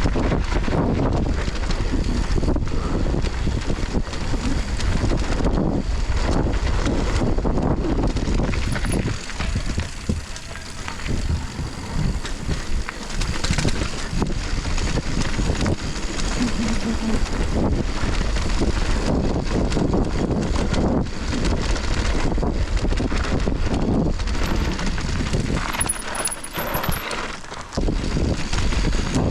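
Mountain bike descending a dirt bike-park trail: wind rushing over the camera microphone, mixed with tyre noise and quick rattles and clinks from the bike. The noise eases briefly about ten seconds in and again near the end.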